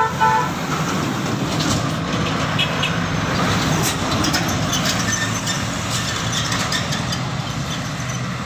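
Diesel truck engine running under load on a hill climb, a steady heavy rumble, opening with a short horn toot and with scattered clicks through the middle.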